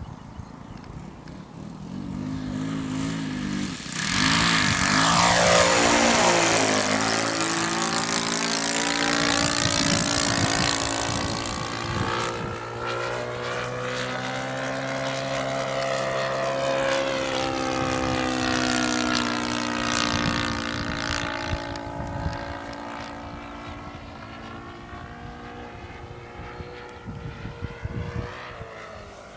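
Propeller engine of a Cessna L-19 Bird Dog light aircraft flying past. It swells to its loudest about four seconds in, the pitch drops as it goes by, then it drones on and slowly fades.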